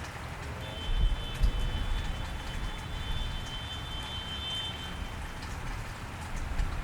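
Steady rain falling on a wet street, an even hiss, with a low rumble underneath and a couple of low thumps about a second in. A thin, high, steady whistle starts just under a second in and lasts about four seconds.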